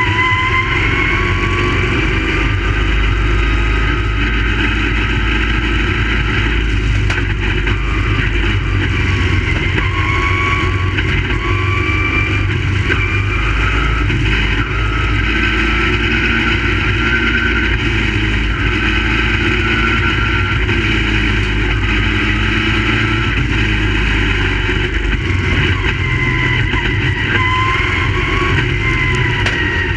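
Race car engines running on a speedway oval, their pitch rising and falling in slow swells as the cars accelerate down the straights and lift for the turns.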